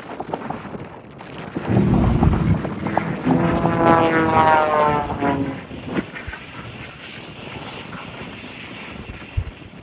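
Propeller airplane flying past, its engine swelling loud about two seconds in, the note falling in pitch as it passes, then fading to a steady distant drone.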